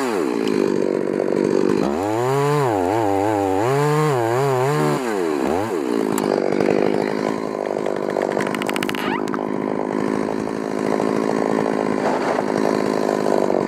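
Chainsaw running and cutting wood. Its engine pitch rises and falls unevenly for a few seconds about two seconds in, then holds steady under load.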